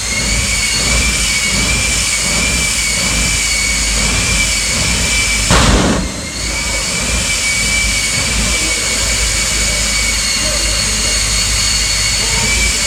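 Jet engine of a jet-powered Kenworth semi truck running at a steady setting: a constant high whine over a low rumble. About five and a half seconds in, a brief loud rushing burst stands out above it.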